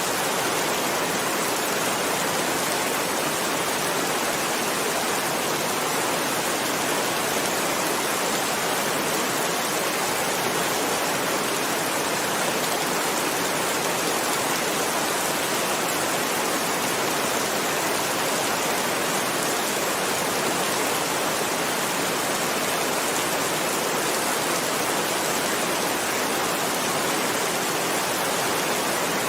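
Heavy rain falling steadily, a dense even hiss without distinct drops or thunder.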